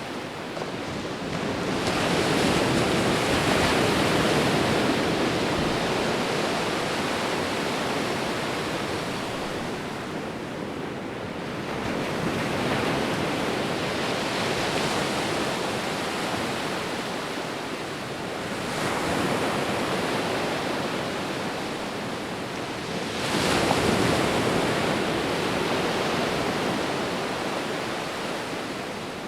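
Ocean waves breaking and washing on a shore: a continuous rush that swells and ebbs, with a wave surging in about every four to ten seconds, the loudest around two-thirds of the way through.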